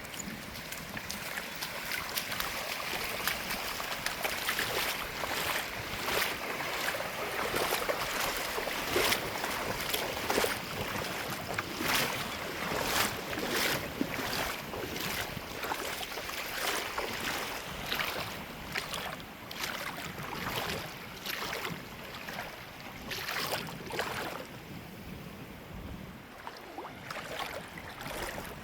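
Ocean surf washing on the shore with wind on the microphone, with many short, sharp noises scattered irregularly through it.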